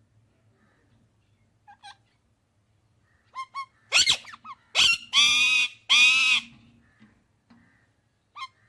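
A parrot calling: a few short chirps, then two sharp screeches about four seconds in, followed by two long, harsh squawks, and one more short chirp near the end.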